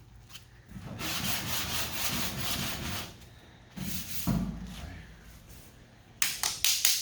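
Sandpaper on a sanding block rubbed by hand over lacquer primer on bodywork: one long even stroke about a second in, then a run of short, quick strokes near the end. The primer is not fully dry and is loading up the paper.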